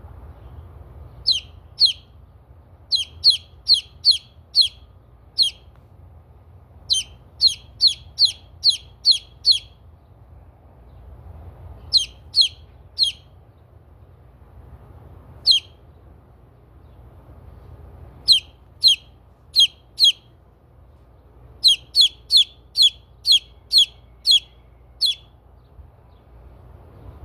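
Transylvanian Naked Neck bantam chick peeping: short, high, falling peeps in runs of several, with pauses of a few seconds between the runs.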